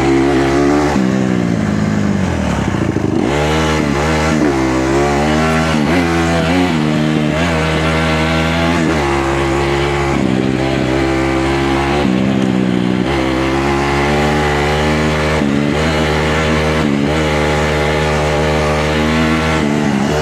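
150R dirt bike's engine being ridden hard, its pitch climbing and falling over and over as the throttle is opened and shut through the gears.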